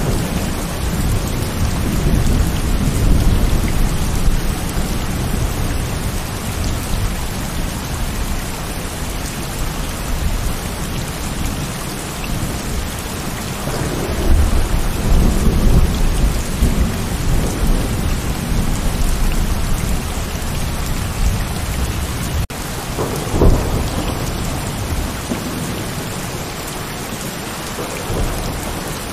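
Heavy rain falling steadily, with thunder rumbling low near the start and again about halfway through, and a sharper, louder clap about three quarters of the way in.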